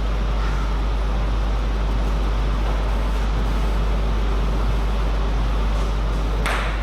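Steady low hum with a constant noise over it, the background of an indoor hall, with one short sharp sound near the end.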